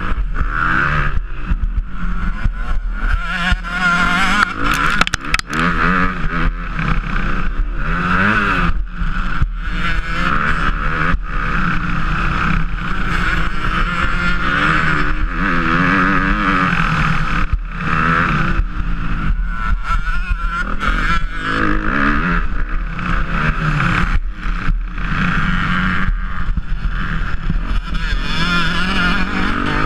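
Motocross bike engine racing round a dirt track, heard from the bike's onboard camera: the revs rise and fall again and again as the rider accelerates, shifts and backs off through the corners.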